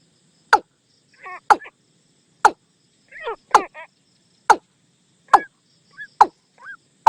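Watercock decoy recording: the bird gives sharp falling notes about once a second, with softer curved notes in between. It is the kind of call played to lure watercocks in.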